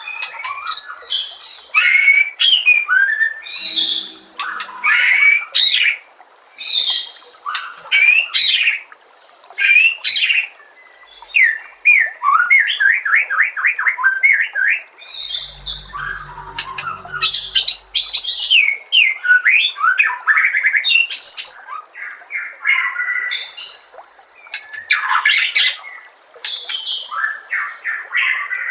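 White-rumped shama (murai batu) singing continuously in loud, varied whistled phrases, with a fast run of repeated notes about halfway through.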